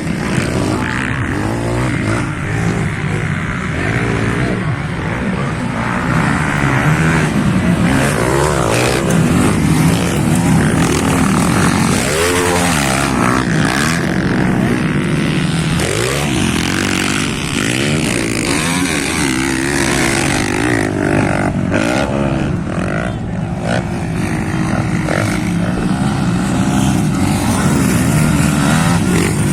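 Several motocross bikes racing, their engines revving up and down and overlapping one another.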